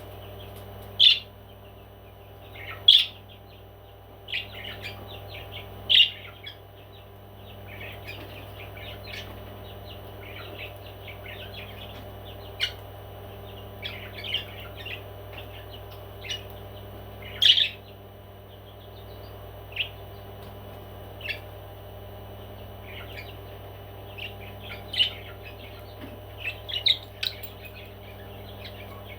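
Pet parrot calling in short, sharp chirps every second or two, a few of them much louder, over a steady low hum.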